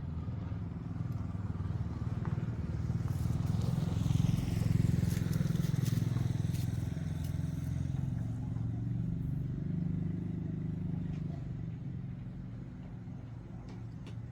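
A motor vehicle engine running, growing louder to a peak about a third of the way in and then slowly fading, with a falling pitch in the middle, like a vehicle passing by.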